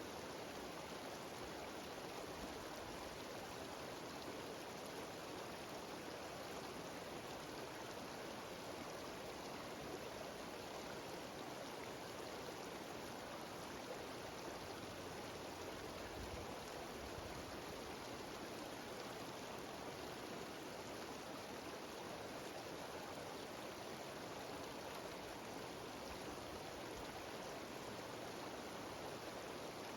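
Mountain waterfall and stream rushing steadily, an even noise of cascading water.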